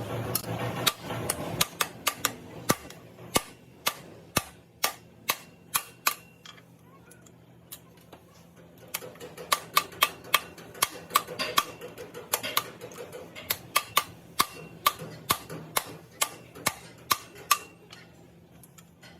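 A run of sharp taps of a tool on metal, coming quickly and unevenly at about two or three a second, thinning out briefly in the middle before picking up again.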